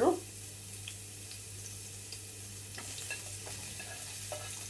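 Chopped onion, ginger and mushroom sizzling as they hit hot olive oil in a frying pan, a steady frying hiss. A few light clicks of a plastic spatula scraping them off a plate come in the second half.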